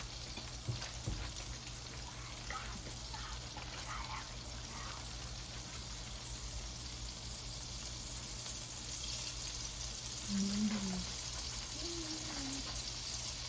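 Floured chicken feet frying in hot grease in a large skillet: a steady sizzle with a few pops of grease near the start.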